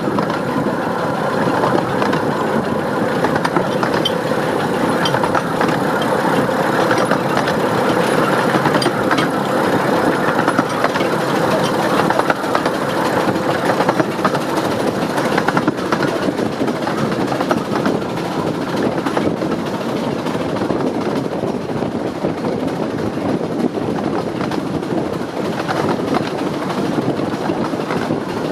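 15-inch gauge steam locomotive 'Northern Rock' working hard up a steep bank, its exhaust beating from the chimney over the steady run of wheels on the rails.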